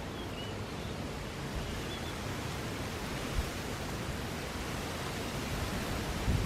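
Steady hiss of wind and sea surf, with low gusts of wind buffeting the microphone near the end.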